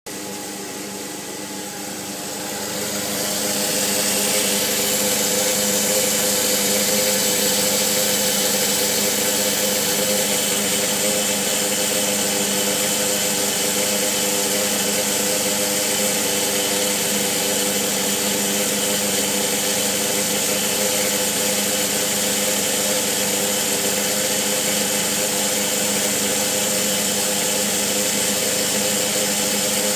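Subaru Sambar's electromagnetic fuel pump running with a steady buzzing hum that swells over the first few seconds, then holds level. The noise is abnormally loud, a sign of a worn pump.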